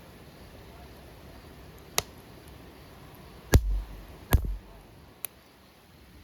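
A sharp click, then two loud, heavy knocks less than a second apart, each followed by a brief low rumble, and a faint click near the end.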